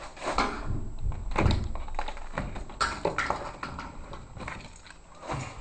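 Scattered soft knocks, clicks and rustles from someone moving around a room with a handheld camcorder, with a few low thumps about a second and a half in.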